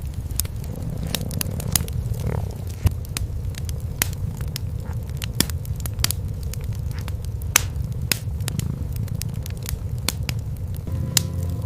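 Wood fire crackling with irregular sharp pops over a steady low rumble of cats purring.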